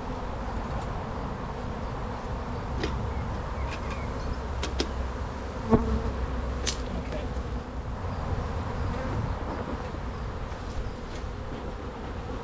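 Honey bees buzzing steadily around an opened hive, with a few sharp clicks and one louder knock about halfway through.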